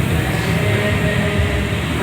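Indoor rowing machine's flywheel whirring steadily under a hard row.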